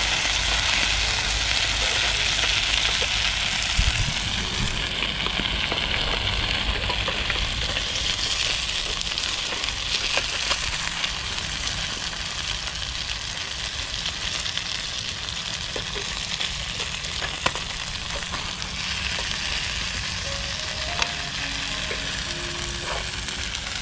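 Small battered shrimp sizzling as they fry in a pan of hot oil, with a few light clicks of a utensil against the pan. The batter is sticking to the pan even though plenty of oil was used.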